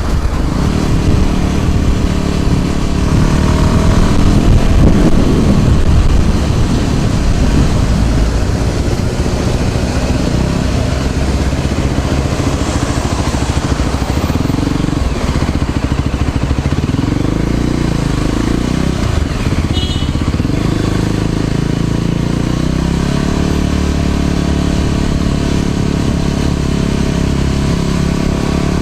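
Scooter ride in road traffic: a steady rushing noise mixed with engine sounds from the scooter and passing vehicles, some of them rising and falling in pitch.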